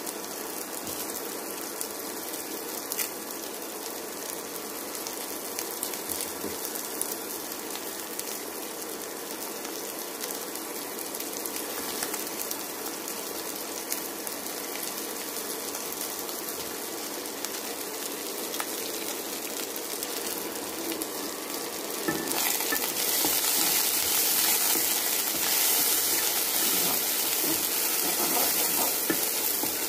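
Sliced onions, garlic and green chilies sizzling in hot oil in a non-stick pan, a steady hiss. About twenty-two seconds in it gets louder as the pan is stirred with a wooden spatula.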